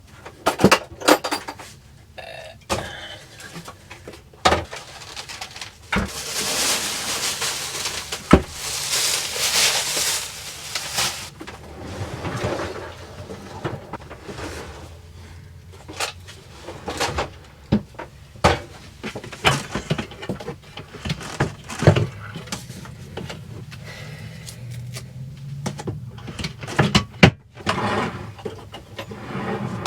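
Knocks, clicks and clatter of items being handled and set down in a van's small kitchen space, with a stretch of rustling between about six and eleven seconds in.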